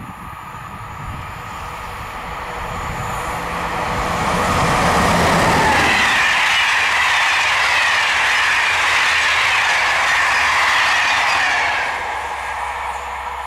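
A train passing by, growing louder over the first five seconds and staying loud for about seven seconds, then dropping off suddenly near the end.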